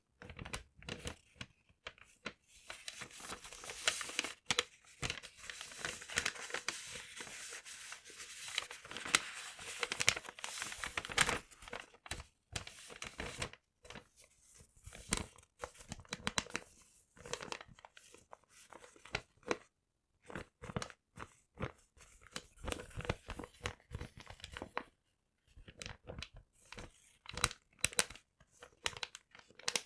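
Paper being crumpled and torn by hand close to the microphone, with crisp crackling and sharp snaps. A nearly continuous rustle in the first third gives way to separate crinkles with short pauses between them.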